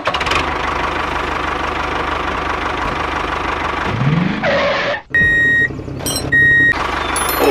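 Tractor engine running steadily with a low rumble, revving up briefly about four seconds in. After a short break, two short high beeps sound.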